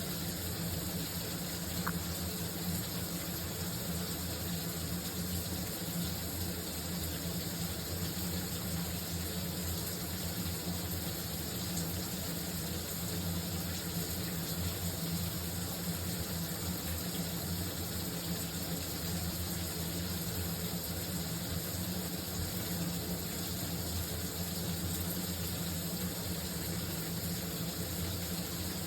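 Shower running: a steady, unbroken rush of water spray, with a low hum beneath it.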